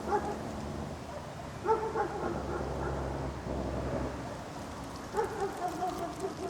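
Dog barking in short groups: one bark at the start, a few barks just under two seconds in, and a run of barks in the last second and a half. A steady low outdoor rumble runs underneath.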